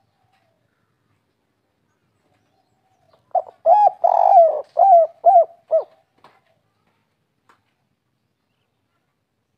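Spotted dove cooing one song phrase of about six quick notes, with a longer note in the middle, starting about three seconds in.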